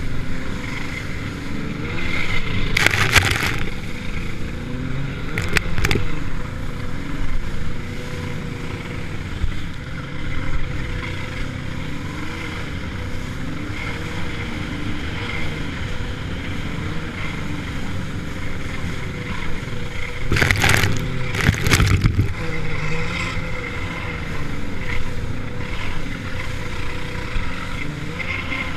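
Jet ski engine running under way, its pitch rising and falling with the throttle. Short bursts of rushing noise break in twice near the start and twice about two-thirds of the way through.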